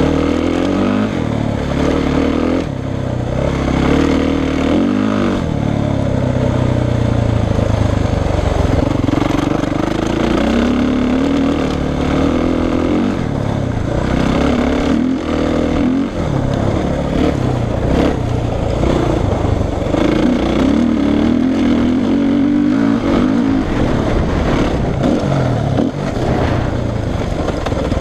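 Suzuki RM-Z450 four-stroke single-cylinder motocross bike engine being ridden hard, its revs rising and falling over and over as the throttle is opened and shut.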